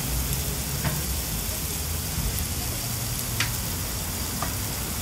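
Sausages, minced-meat kebabs, sliced onions and halloumi frying on a hot flat-top griddle, a steady sizzling hiss with a few faint clicks.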